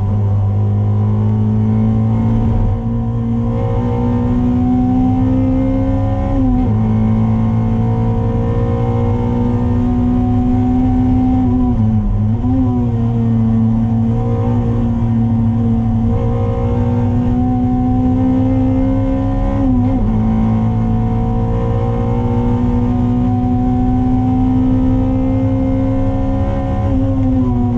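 Toyota MR2's 2ZZ-GE 1.8-litre four-cylinder engine running hard at high revs on track, heard from inside the cabin over a steady low drone. Its note dips sharply and briefly four times, then climbs slowly again each time.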